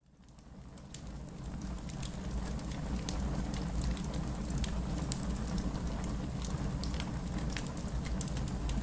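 Burning wood fire crackling, with scattered sharp pops over a steady low rumble of flames. It fades in from silence over the first two seconds or so, then holds steady.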